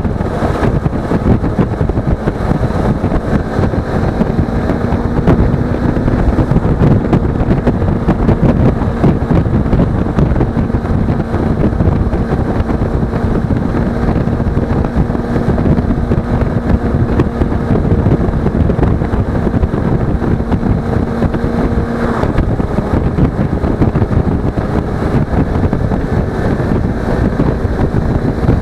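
Suzuki V-Strom 250 parallel-twin engine running at a steady road speed, buried in heavy wind noise on the action camera's microphone. The steady engine note changes about 22 seconds in, after a brief click.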